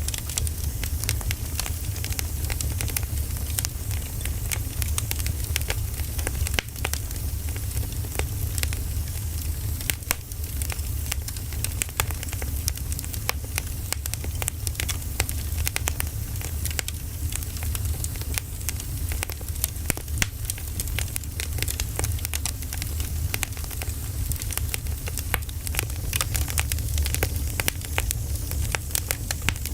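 Wood fire burning: logs crackling with many irregular sharp pops over a steady low rumble.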